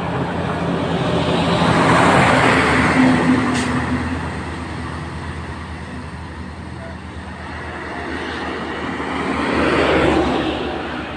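Road traffic: two motor vehicles drive past close by, one after another, their engine and tyre noise swelling and fading, the first about two seconds in and the second near the end.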